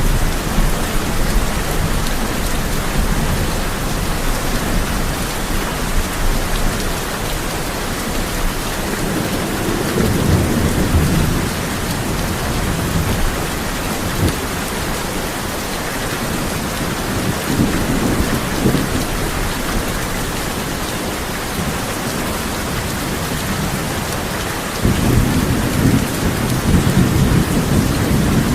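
Steady heavy rain drumming on a tin roof, with low thunder rumbling in swells, the loudest building near the end.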